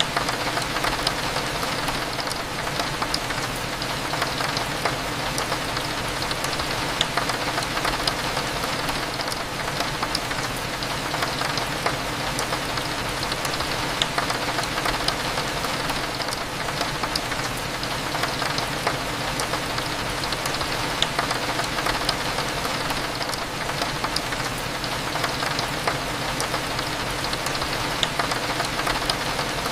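Steady rain with many small drops tapping, over a faint low steady hum.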